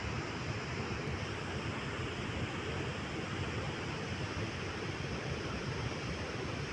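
Floodwater rushing steadily, a continuous roar of heavy water flow after torrential rain.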